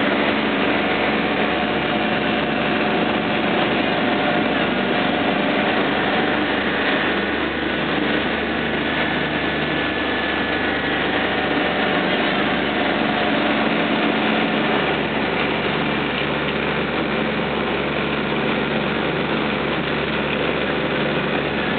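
Motorboat engine running steadily, with a constant hum over rushing noise.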